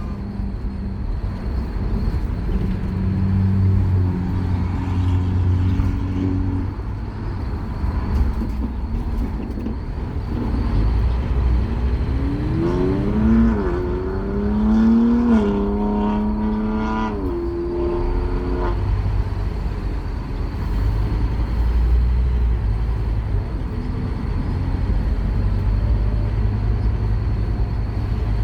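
Scania K230UB Omnilink bus's five-cylinder diesel engine working under acceleration: a low rumble throughout, with a whine that climbs in pitch about halfway through, stepping down a few times as the gears change, then fading back into the rumble.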